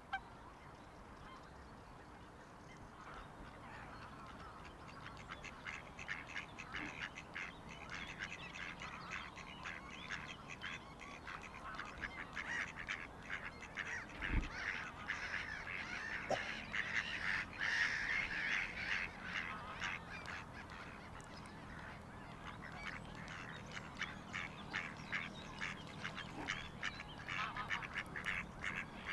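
A flock of waterfowl calling: many short, rapid honking and quacking calls that build up a few seconds in and are densest past the middle. A single low thump comes about halfway through.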